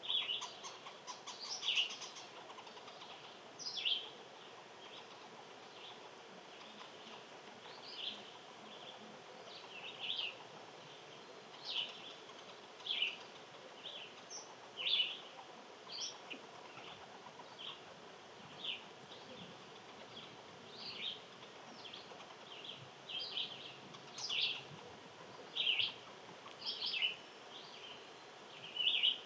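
Small birds chirping: short, sharp calls repeated every second or two, over a faint steady outdoor background.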